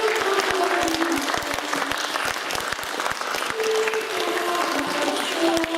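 Audience applauding, a dense run of many hands clapping, with a group of voices singing over it near the start and again near the end.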